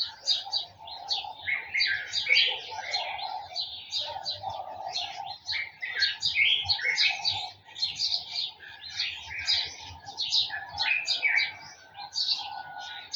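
A garden chorus of many small birds chirping and twittering at once, with calls overlapping without pause, and lower calls running underneath.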